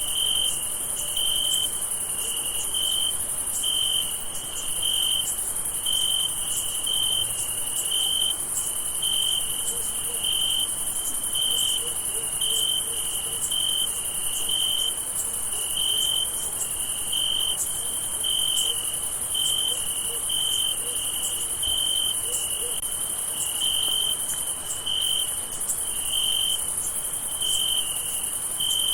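Crickets chirping at night: one high-pitched chirp repeating steadily about one and a half times a second, over a continuous, even higher insect trill.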